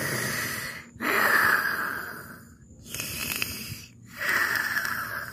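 Snoring: two long snores, each a wheezy breath in followed by a breath out.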